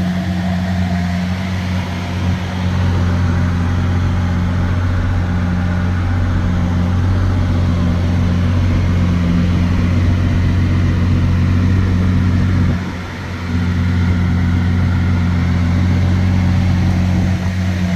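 Lamborghini Aventador SV's 6.5-litre V12 idling steadily through a Gintani F1 exhaust, a deep steady drone. It is briefly quieter about thirteen seconds in.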